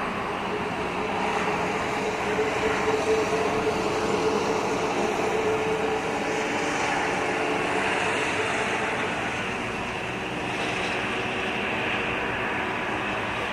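Steady roar of heavy storm rain and wind, with a passing vehicle's engine tone rising out of it a couple of seconds in and fading after about six seconds.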